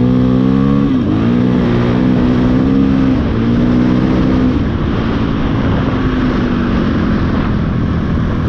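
KTM 500 EXC single-cylinder four-stroke dirt bike engine running under throttle. The revs dip and pick up again twice in the first few seconds, then hold fairly steady and slowly fall off.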